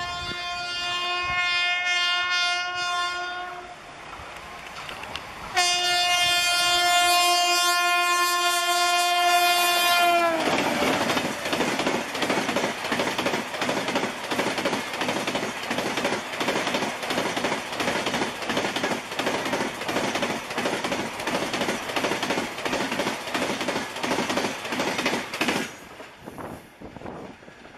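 WAP-7 electric locomotive at the head of the New Delhi–Howrah Rajdhani Express sounds two long horn blasts at speed; the second drops in pitch as the locomotive passes. Then the coaches rush by with a fast, steady clatter of wheels over the rail joints, which falls away near the end.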